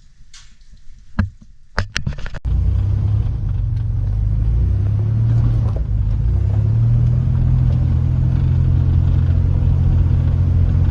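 A few sharp clicks, then about two and a half seconds in a loud, steady low engine rumble starts suddenly: a vehicle's motor running while under way.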